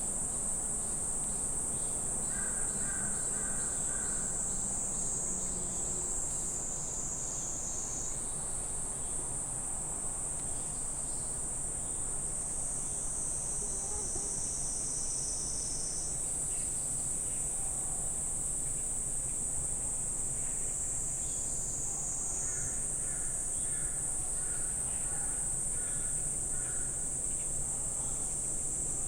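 A steady, high-pitched chorus of summer insects shrilling in a forest, its pitch shifting slightly every few seconds. Twice a bird gives a run of short, evenly repeated calls.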